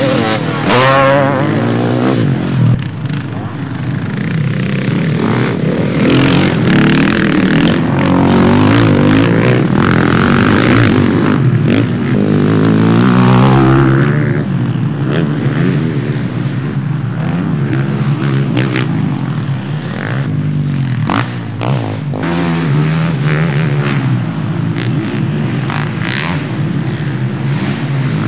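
Motocross bikes racing round a dirt track, their engines revving up and down in pitch again and again as they accelerate and shift, several at once.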